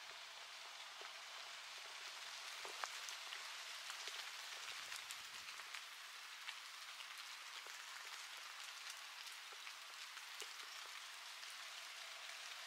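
Light rain falling steadily, with many single drops ticking and pattering at random.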